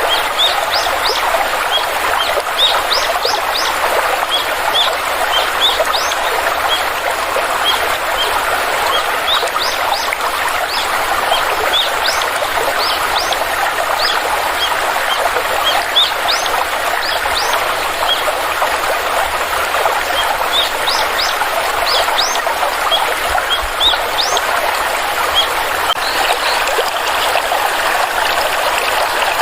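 A flowing stream with a steady rush of water, and small birds chirping over it in quick, short rising notes that come again and again.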